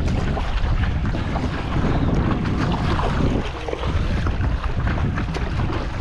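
Strong wind buffeting the microphone over a choppy sea, with water splashing and slapping around a stand-up paddleboard.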